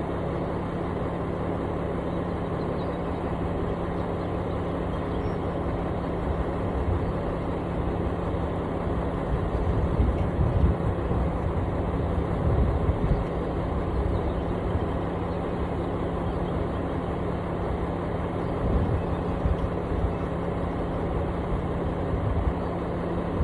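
Engine of a piece of heavy construction equipment running steadily, with a few louder low surges around the middle.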